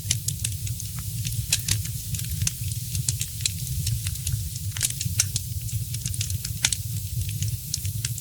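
Wood fire crackling in a fireplace: many sharp, high pops and ticks at an irregular pace, several a second, over a steady low rumble and a light hiss.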